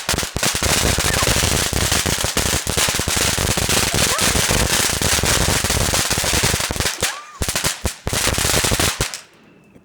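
A firework going off in a rapid, dense barrage of cracks and bangs that stops suddenly about nine seconds in.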